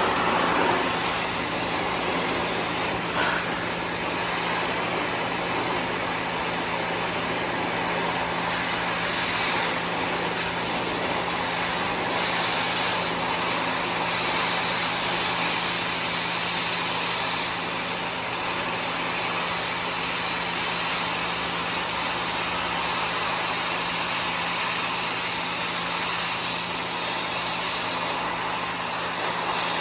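Oxy-acetylene torch with a scarfing tip gouging out welds: a steady, loud hiss of the gas jet blowing molten metal away, swelling a little at times.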